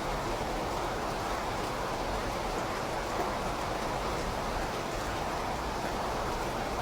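Steady rain falling: an even, continuous hiss of rain.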